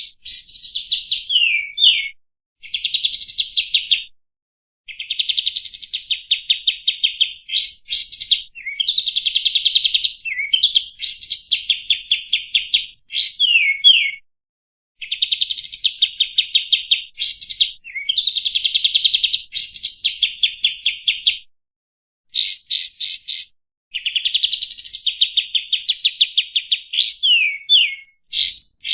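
Kapas tembak songbird singing a fast, chattering song: rapid trilled phrases broken by sharp whistled sweeps up and down, with short pauses every few seconds.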